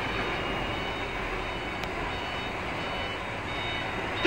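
Reversing alarm of a tractor-trailer truck beeping repeatedly as it backs up, over the steady running of its engine.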